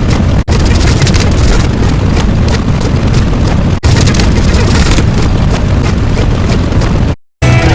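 A loud, continuous rumbling noise, heaviest in the low end, broken by two very brief dropouts and cutting off abruptly just before the end.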